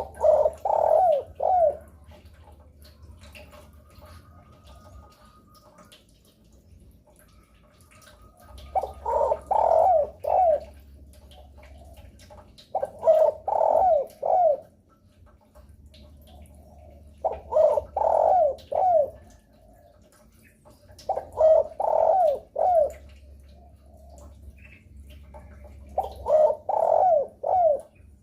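Spotted dove (derkuku) cooing: six phrases of three or four short, rounded coo notes, the first at the start and the rest about every four seconds after a longer pause, each phrase lasting under two seconds.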